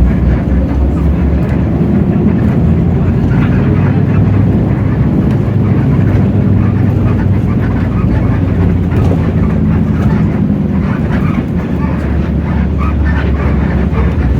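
Hino J08E inline-six diesel engine of a city bus running steadily under way, heard from inside the cabin, with a low drone and light rattles from the bus body.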